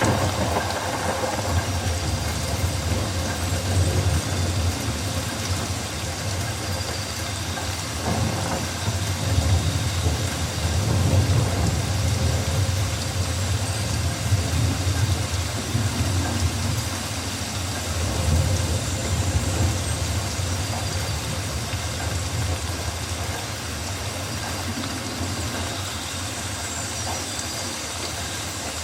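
Rainforest ambience: steady rain falling, with a deep rumble underneath that swells and eases.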